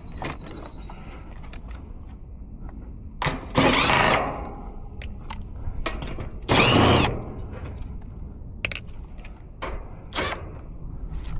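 Cordless drill or screw gun run in two short bursts of about a second each, its pitch rising and falling with the trigger, with clicks and knocks of handling between.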